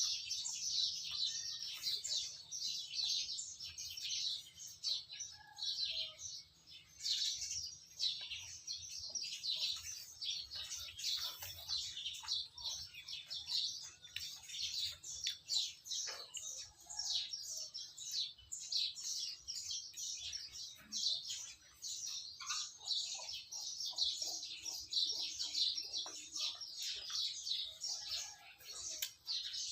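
Small birds chirping continuously in rapid short calls, many overlapping.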